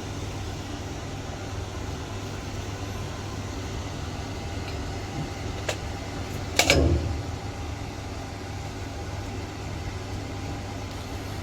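Steady low hum of a saw blade grinding machine running, with a light click and then a heavier clunk about six and a half seconds in.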